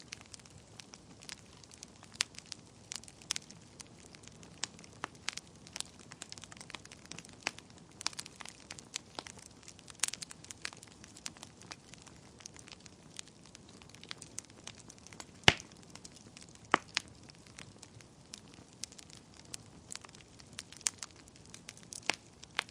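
Wood fire burning in a fireplace: irregular crackles and pops over a soft hiss, with one louder pop about two-thirds of the way through.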